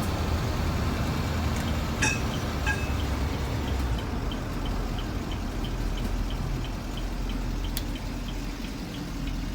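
Bus running down the road with its body shaking and rattling over a steady low engine and road rumble. A few sharp rattles come about two seconds in, and a light ticking about twice a second starts about four seconds in.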